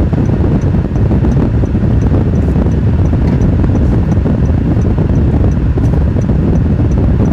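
Steady low road and wind rumble from a moving vehicle, with a faint, regular ticking about three times a second, typical of a turn-signal indicator.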